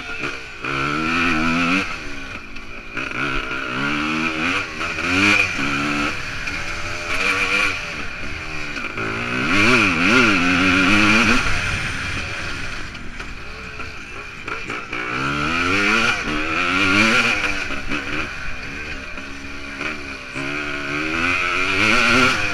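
Suzuki PE250 two-stroke single-cylinder engine under hard riding. The engine note climbs and drops again and again as the throttle is opened and eased off through the gears, loudest about halfway through.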